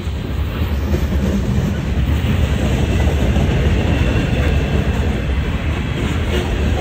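Freight train's boxcars rolling past, a loud, steady low rumble of steel wheels on the rails.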